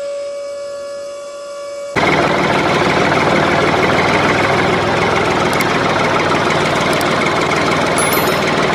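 A steady whistle-like tone, then about two seconds in a loud, steady motor running noise starts abruptly and carries on.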